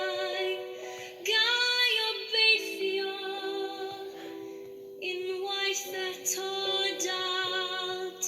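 A young woman's solo voice singing a slow Welsh-language song over soft accompaniment, with long held notes, the loudest phrase about a second in, carrying a wavering vibrato.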